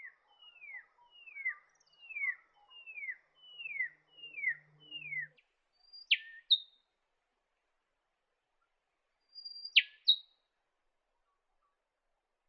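Rufous whistler singing: a run of about eight quick whistled notes, each slurring downward, then twice a call made of a sharp drop in pitch followed by a short high note.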